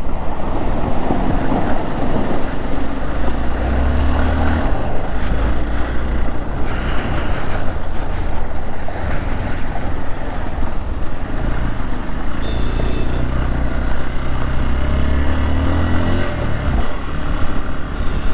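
Hero Xpulse 200's single-cylinder engine running as the motorcycle is ridden, its low hum swelling with the throttle a couple of times.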